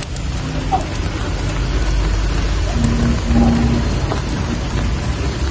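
Steady rain falling, with scattered drop ticks and a deep low rumble underneath.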